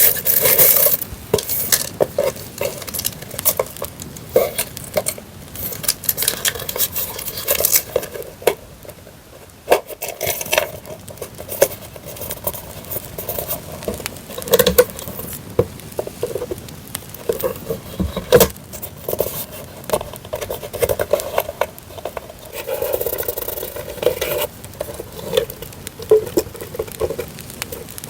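Paper and plastic-wrapped journaling items handled and rustled, with bursts of crinkling and scraping, over a steady campfire crackling track of scattered sharp pops.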